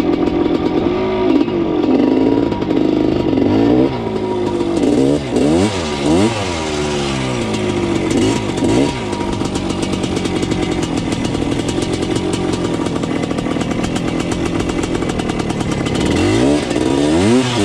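1979 Yamaha IT 250's two-stroke single-cylinder engine under way, its pitch rising and falling repeatedly with throttle changes, steadier for several seconds in the middle before revving up and down again near the end.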